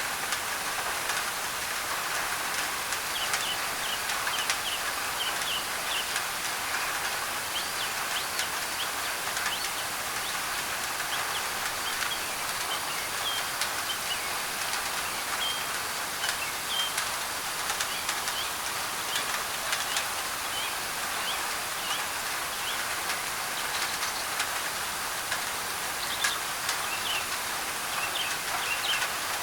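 Rain pattering on a thin tin roof as a steady hiss with scattered sharp drop ticks, while birds give many short high chirps throughout.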